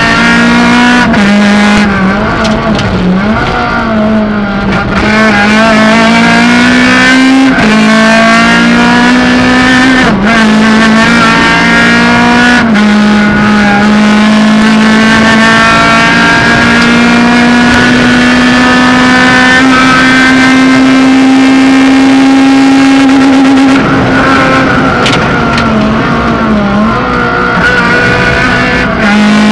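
Suzuki Swift GTi rally car's engine from inside the cockpit, driven hard at high revs. Its pitch climbs and dips briefly several times at gear changes, holds high for a long stretch, then falls and wavers as the driver lifts off near the end.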